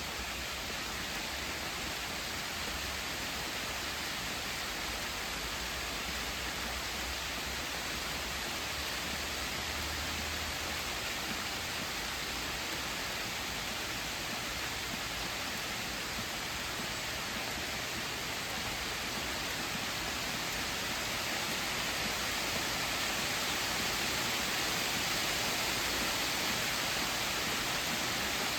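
Heavy rain falling in a steady hiss, growing a little louder about two-thirds of the way through.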